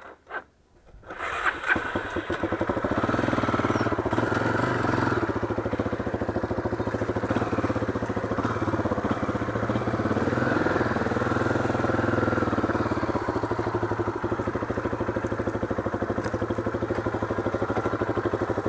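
Motorcycle engine starting about a second in and then running steadily.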